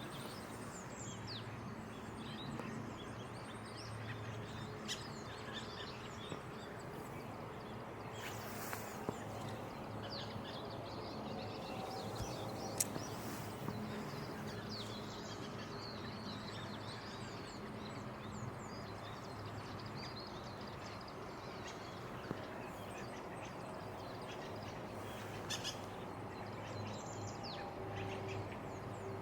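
Bramblings calling with short, scattered chirps over a steady low hum, with a few sharp clicks.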